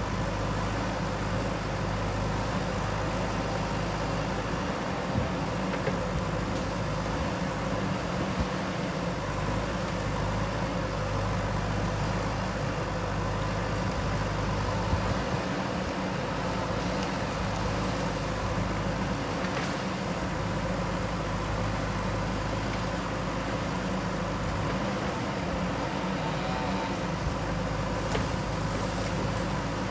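JCB 3DX backhoe loader's diesel engine running steadily under work, with a few faint brief knocks.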